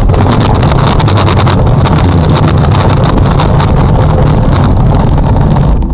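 Loud, overloaded road and wind noise from a moving car picked up by a dashcam microphone, with a low rumble and rapid crackling; it drops off suddenly at the end.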